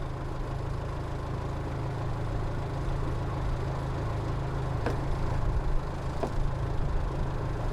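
An engine idling steadily with a low hum, with a couple of faint clicks partway through.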